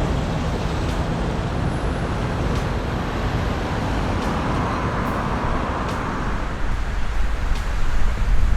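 Heavy vehicle's engine running with a steady low rumble, growing louder and rougher near the end.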